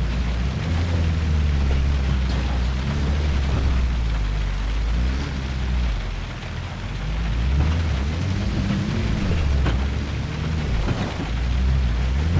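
UAZ off-road vehicle's engine rumbling and revving up and down several times as it crawls through a stream, under a steady wash of heavy rain and water noise, with a few sharp knocks.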